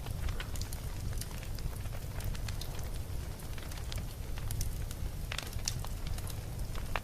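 Campfire burning with a steady low rumble and irregular sharp crackles and pops, a few louder pops about five and a half seconds in and near the end.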